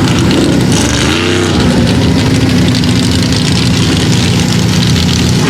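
Mega truck's big engine running hard through the mud course, with a brief rise and fall in pitch about a second in as the throttle is worked.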